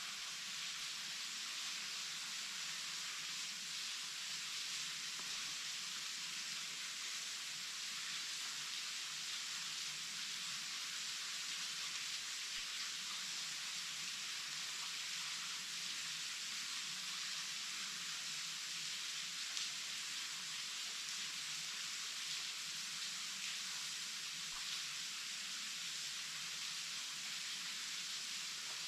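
Waterfall: water falling and splashing in a steady, even hiss that stays constant throughout.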